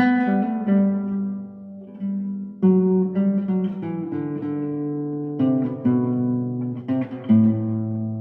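Acoustic guitar playing a slow melody over plucked chords. New notes and chords are struck every second or so and left to ring.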